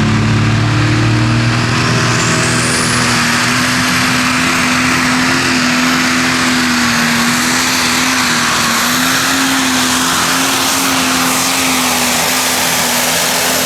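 Modified pulling tractor running flat out under load as it drags the weight-transfer sled. A loud steady engine note carries a high whine that climbs about two seconds in and then holds.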